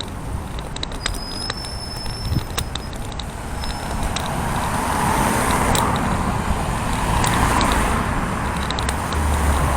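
Road traffic passing close by, a steady rush of tyres and engines that swells from about four seconds in and stays loud to the end, with light clicks of a long cane's tip sweeping the pavement.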